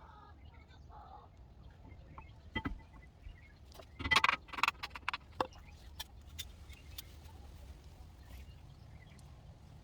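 Hand work on a car's front brake: a sharp metallic knock, then a quick cluster of clinks and knocks about four seconds in, over a low steady hum.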